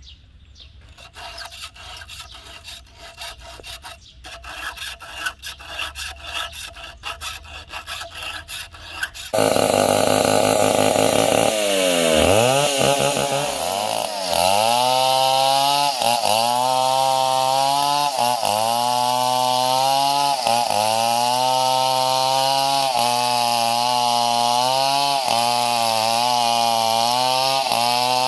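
Irregular scraping and rubbing, then about nine seconds in a Stihl 070 two-stroke chainsaw comes in loud and cuts wood. Its engine pitch sags and recovers about every two seconds as the bar takes load.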